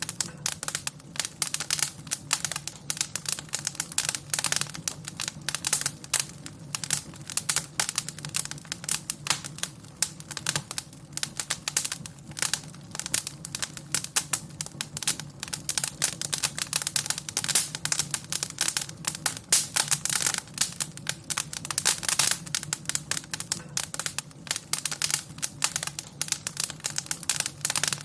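Wood fire crackling in a fireplace: dense, irregular pops and snaps over a low, steady undertone.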